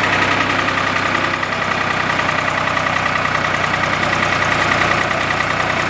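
Tractor loader-backhoe engine running steadily and loudly, with a steady high whine over it.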